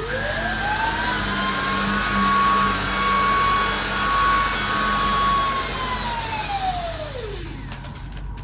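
Hitachi PV-BH900SL stick vacuum cleaner switched on. Its motor whine rises to full speed within about a second and runs steadily with the rotating brush head, then winds down after switch-off over the last two seconds or so.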